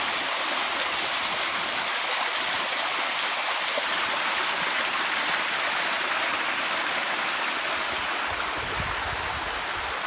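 Strong wind making a steady, loud rushing hiss, with a few low buffets of the gusts near the end.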